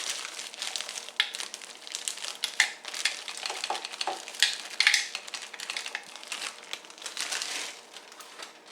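Plastic bag crinkling and rustling, with irregular small clicks and clatters as blueberries are shaken out of it into a container.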